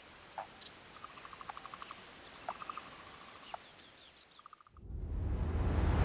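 Outdoor nature ambience with small birds calling: brief chirps, short rapid trills and a few quick high notes over a faint steady high hiss. About five seconds in, a rising whooshing swell grows quickly louder and becomes the loudest sound.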